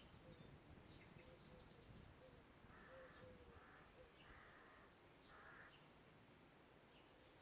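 Faint harsh calls of a corvid in forest, four rasping calls in a row about three to six seconds in. Faint high chirps of small songbirds sound around them.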